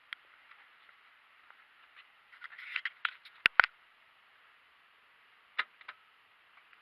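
Scattered sharp clicks and light knocks of hands working the ground power unit's switches and panel hardware, with a loud double click about three and a half seconds in; the engine is not yet running.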